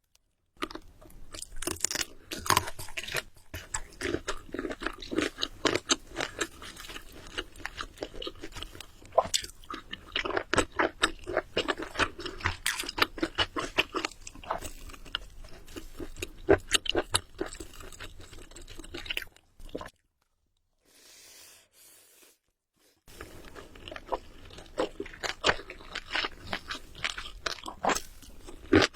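Close-miked chewing and biting of food, a dense run of quick clicks and smacks. It drops out to near silence for about three seconds a little past two-thirds of the way through, then the chewing resumes.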